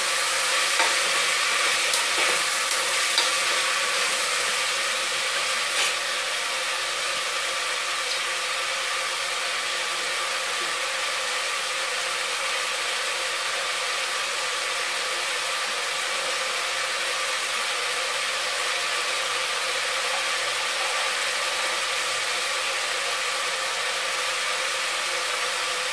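Mixed vegetables sizzling steadily as they fry in oil in an open aluminium pressure cooker, with a few knocks and scrapes of a spatula against the pot in the first six seconds.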